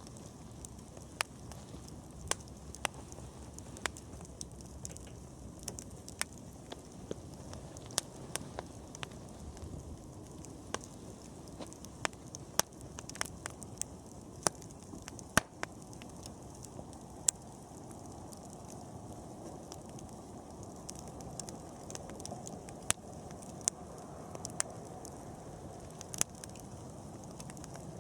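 Wood campfire crackling: irregular sharp pops and snaps, several a second, over the steady low rush of the burning fire.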